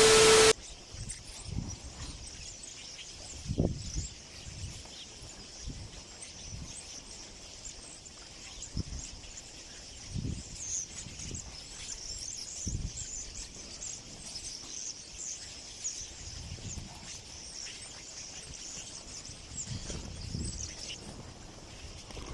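Outdoor ambience of many small birds chirping faintly and continuously, with irregular low buffets of wind on the microphone. A short steady tone sounds right at the start.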